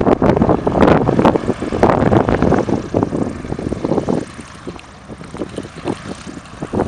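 Gusty wind buffeting the camera microphone, coming in irregular loud swells that ease off for a couple of seconds past the middle.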